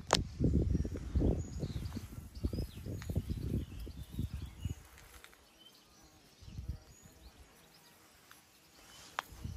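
Faint bird chirps over low rumbling and knocking, which dies away about five seconds in.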